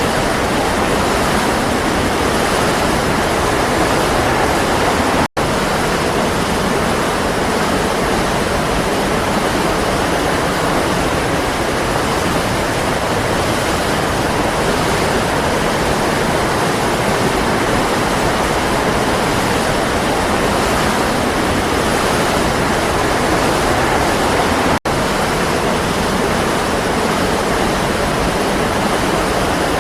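Waterfall: a steady, even rush of falling water. The sound cuts out for an instant twice, about five seconds in and again near the end.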